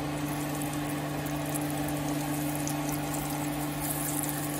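Flour-dredged chicken livers frying in hot oil in a skillet: a steady sizzle with a few faint crackles, over a constant low hum.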